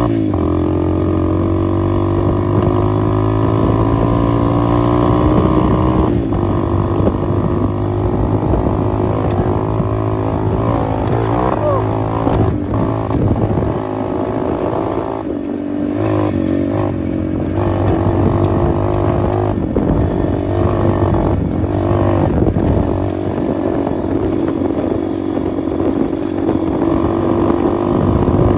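125cc pit bike engine running while being ridden, its pitch rising and falling as the throttle opens and closes, with several brief dips in the engine note in the middle.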